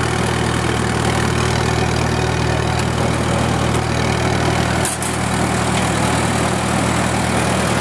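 1943 Minneapolis Moline anti-aircraft gun generator set running steadily, quiet and smooth, while supplying about 8 amps of lighting load at 120 volts. A brief click sounds about five seconds in.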